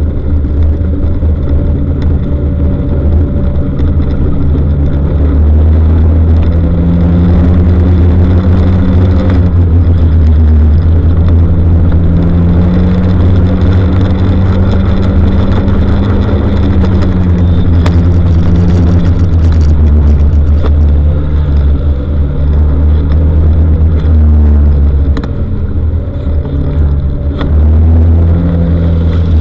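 A road vehicle's engine running steadily under way, its low drone rising and falling in pitch with the throttle.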